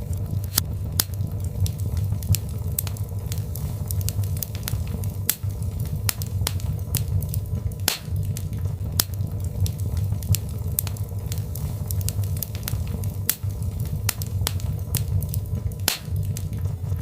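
Birch logs burning in a fireplace: frequent, irregular sharp crackles and pops over a steady low rumble.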